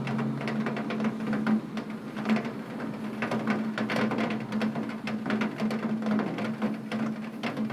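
Heavy rain on a window: a dense, irregular patter of drops tapping on the glass, with a steady low hum underneath.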